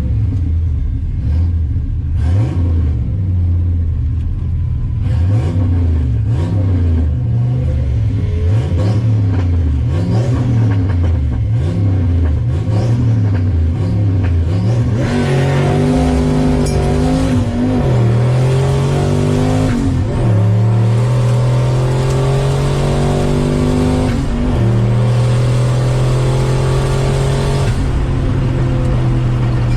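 Turbocharged 302 V8 of a 1988 Fox-body Mustang GT revving up and down repeatedly. About halfway through, it launches and pulls hard through the gears of its five-speed manual, the pitch climbing steadily and dropping at each of three shifts.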